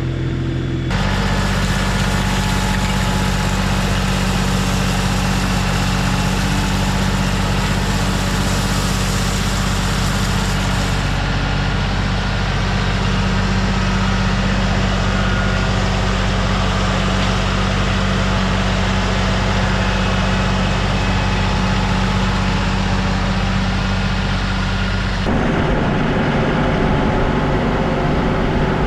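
Diesel engine of an LS MT240 compact tractor running steadily at working speed. The sound changes abruptly about a second in and again near the end.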